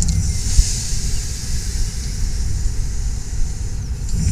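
A 15-inch gauge miniature railway train running: a steady low rumble of the wheels on the track under a high hiss, with one sharp knock about half a second in.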